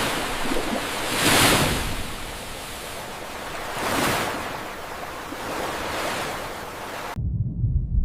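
Ocean waves washing, a rushing surge that swells twice, about a second and a half in and about four seconds in. It stops suddenly near the end, where a low rumble takes over.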